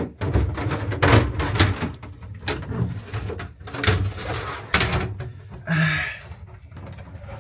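Irregular knocks and thumps, with a short scraping rasp a little before six seconds in.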